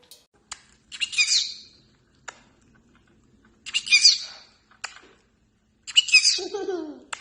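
Parrot calling shrilly three times, about two and a half seconds apart, with short sharp clicks between the calls.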